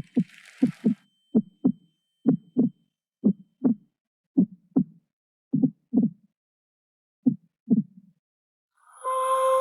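Heartbeat: seven double lub-dub thumps, about one pair a second, slowing as they go and stopping about eight seconds in. Near the end, music with a held tone comes in.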